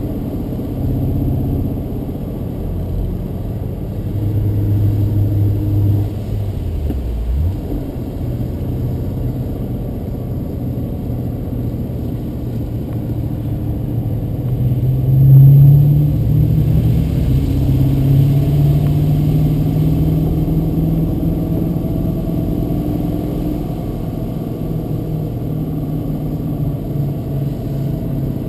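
BMW Z8's V8 engine heard from inside the cabin while driving. The engine note falls away about seven seconds in, then rises as the car accelerates about fifteen seconds in, the loudest moment, and holds steady after that.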